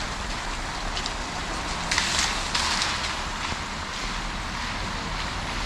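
Steady hiss of rain falling, with two brief louder swishes about two seconds in.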